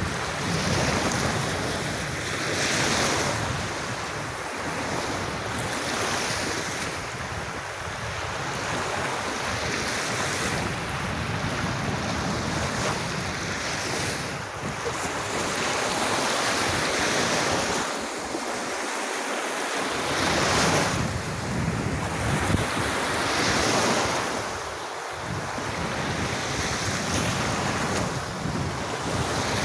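Sea waves washing onto a beach, the surf swelling and easing every few seconds, with wind buffeting the microphone.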